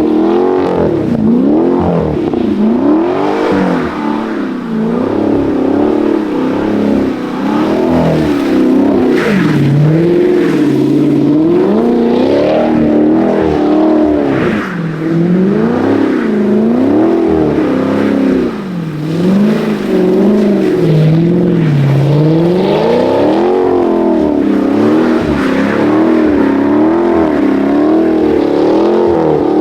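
Full-bolt-on Chevrolet Camaro's engine revving up and down over and over, its pitch rising and falling in quick repeated swings.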